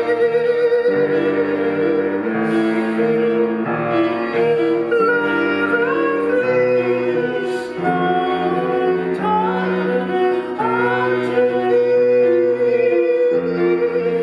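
Live chamber-ensemble music: bowed strings and piano hold sustained chords under a wavering melody line that slides upward several times.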